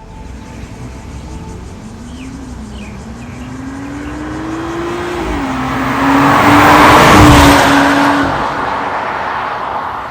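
Porsche Cayenne Coupe's turbocharged EA839 V6 through an MS-R valved cat-back exhaust, accelerating: the revs climb, drop at an upshift about five seconds in, then the car passes by loudest around seven seconds and fades away.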